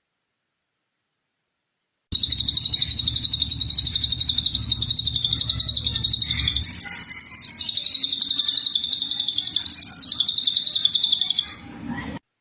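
A recorded songbird giving one long, rapid, high-pitched trill of about nine seconds, starting suddenly about two seconds in after silence and cutting off shortly before the end.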